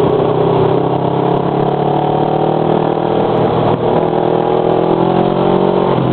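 Motorcycle engine with a loud muffler, running under steady throttle while riding, its pitch climbing slowly, with a brief break about two-thirds of the way through.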